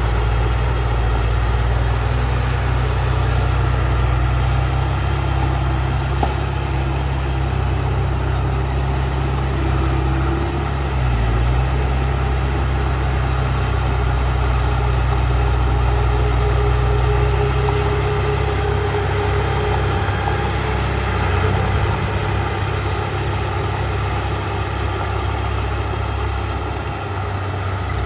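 Heavy diesel engine of earthmoving machinery running steadily, with a deep rumble that holds even and dips slightly near the end.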